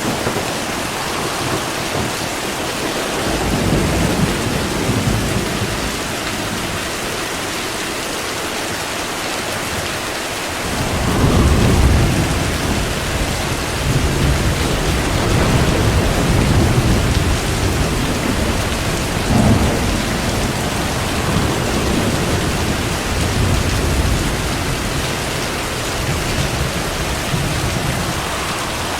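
Steady heavy rain hissing, with thunder rolling through it: a low rumble a few seconds in, then a louder roll from about ten seconds in that keeps rumbling in swells until near the end.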